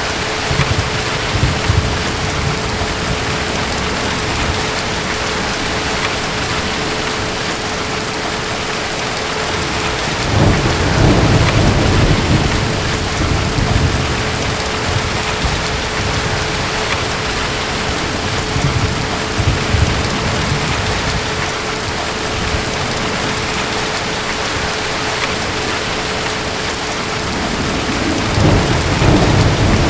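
Steady heavy rain with distant thunder rumbling, one long roll about a third of the way in and another swelling near the end.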